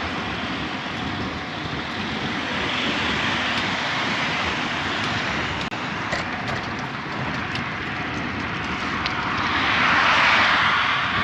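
Steady rushing noise of wind and tyres from a moving bicycle, swelling louder for a couple of seconds near the end.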